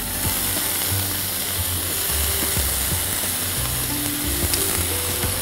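Grated coconut and spice tempering frying in oil in a pan, sizzling as spoonfuls of soaked asafoetida water go into the hot pan. The sizzle starts suddenly and holds steady, with faint background music beneath.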